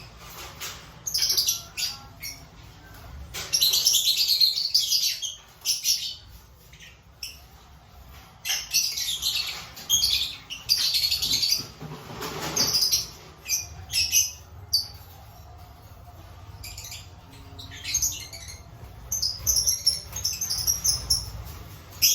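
Lovebirds chattering in irregular bursts of shrill chirps, with quieter gaps between.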